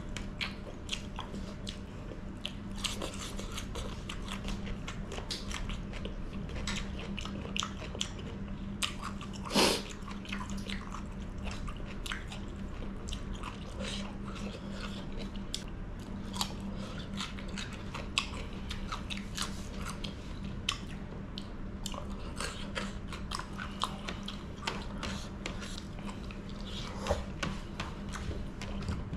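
A person chewing and biting into raw cucumber and chicken curry, with many small wet mouth clicks and crunches and one louder crunch about ten seconds in. A steady low hum runs underneath.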